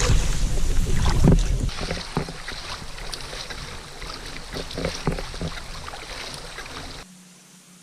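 Wind buffeting the microphone over water moving around a kayak, with scattered knocks and splashes from handling in the boat. Near the end the sound cuts off sharply to a faint steady hum.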